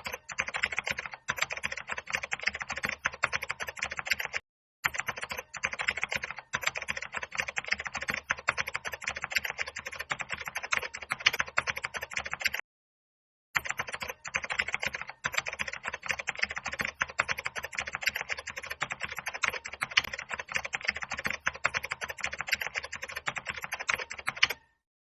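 Fast, continuous computer keyboard typing, a dense run of key clicks, with two brief breaks about four and a half and thirteen seconds in.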